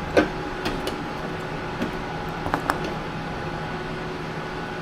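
Steady machine hum with a few light clicks and taps from handling the small plastic and metal parts of garage door opener photo eyes.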